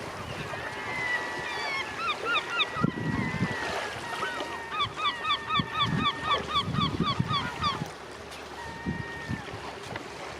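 Gulls calling: drawn-out cries, then a rapid run of repeated yelping notes at about four a second through the middle, then a few more long calls.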